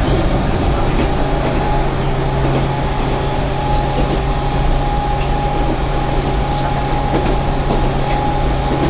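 Running noise of a Keihan Ishiyama-Sakamoto Line train heard from inside the car as it moves: a steady noise with a constant low hum, joined about a second in by a steady higher tone.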